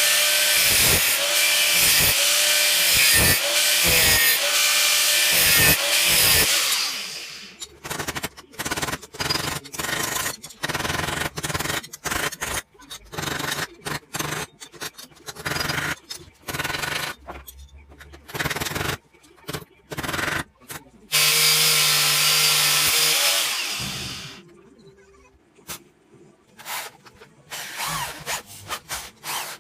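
Power drill running: a long loud run, then many short bursts on and off, another long run, and more short bursts near the end.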